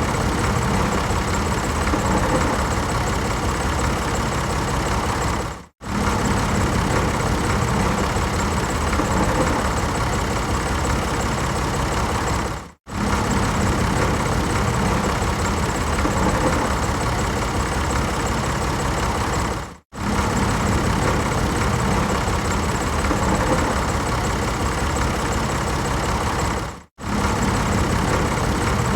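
Tractor engine running steadily, cutting out for a split second about every seven seconds.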